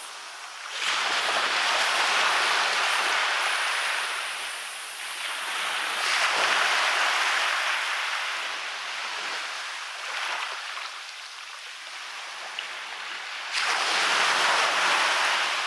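Sea waves breaking and washing up a beach, coming in three surges about six to seven seconds apart, each swelling and then fading.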